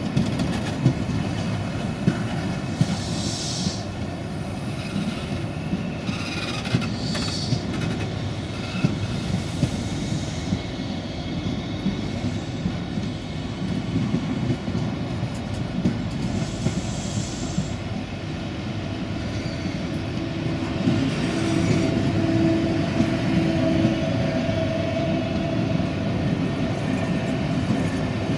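Caledonian Sleeper passenger coaches rolling slowly past, a steady rumble with the wheels clicking over rail joints. Brief high wheel squeals come several times, with a longer held squeal about two-thirds of the way through.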